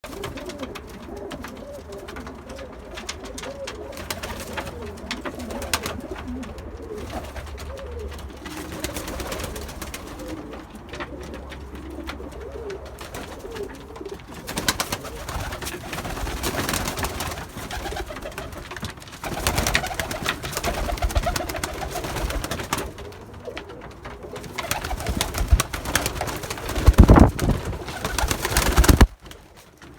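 Domestic pigeons of Iraqi breeds cooing, with wavering coos through the first half, then louder noisy bursts in the second half, the loudest near the end.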